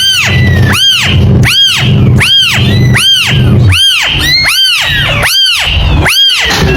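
Kitten meowing over and over: high-pitched mews that rise and fall in pitch, about one every 0.8 seconds, with fainter calls from other kittens overlapping, over a low rumble.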